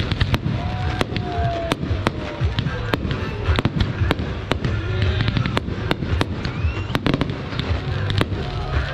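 Fireworks display: a dense, irregular run of sharp bangs and crackles over a steady low rumble.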